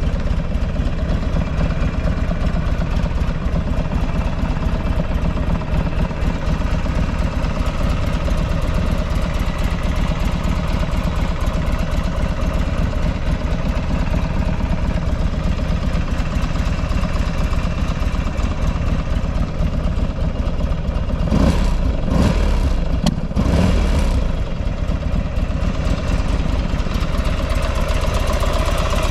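Buell XB12Ss Lightning Long's air-cooled V-twin idling steadily, with two brief louder moments about three quarters of the way through. The seller calls the engine very quiet, with no abnormal noise.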